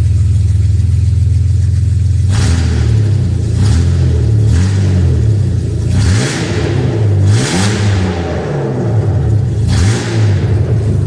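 BMW E38 728i's M52B28 2.8-litre straight-six running through a straight-pipe exhaust with the catalytic converters removed. It idles, then about two seconds in is blipped several times, the revs rising and falling each time before dropping back to idle near the end.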